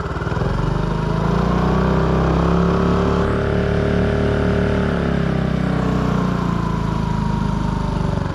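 2006 Honda 2 hp single-cylinder four-stroke outboard motor running under way. Its pitch rises over the first couple of seconds, eases back down about five seconds in, then holds steady.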